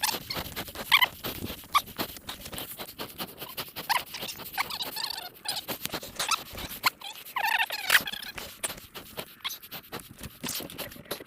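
Mountain bike descending a rough downhill trail: steady clatter and rattling of the bike over roots and bumps, broken by short squeals from wet disc brakes, about a second in, around four to five seconds in and again near eight seconds.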